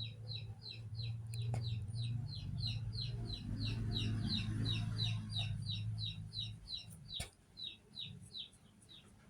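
A bird chirping steadily, short high notes that each fall in pitch, about three a second, stopping near the end. A low hum runs underneath for the first two-thirds, and a sharp click comes near the end.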